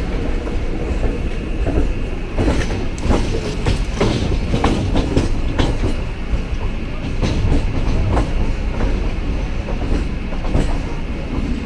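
Mumbai suburban local train running, heard from its open doorway: a steady rumble of wheels on rail, with a run of sharp, irregular clacks through the middle as the wheels cross the points onto another track.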